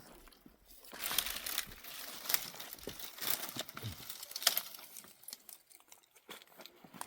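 Rustling and crinkling, with scattered sharp clicks, busiest in the first few seconds and quieter near the end.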